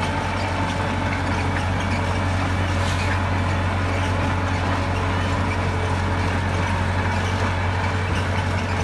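Diesel engine of heavy earthmoving equipment running steadily, with a strong even low hum.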